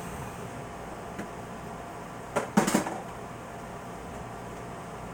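A faint tick, then a knock and a short clatter about two and a half seconds in, as of small objects handled or set down on a hard surface.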